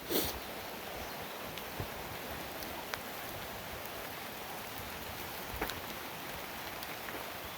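Steady rain falling through trees, with scattered drops ticking close by. A brief louder brushing sound comes right at the start.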